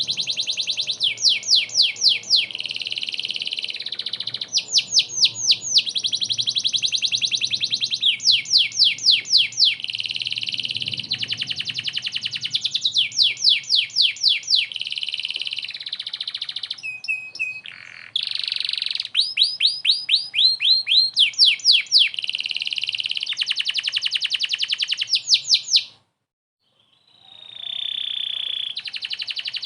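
Domestic canary singing continuously in long, fast trills and rolls of rapidly repeated high notes. The song breaks off for about a second near the end, then resumes.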